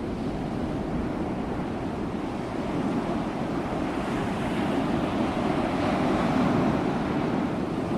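Ocean waves washing on the shore, a continuous surf rush that swells gently, with a broader surge about halfway through.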